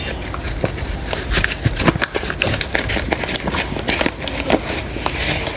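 Kitchen handling noises: irregular clicks, taps and knocks of dishes and utensils as raw fish is handled and coated in flour, over a steady low background hum.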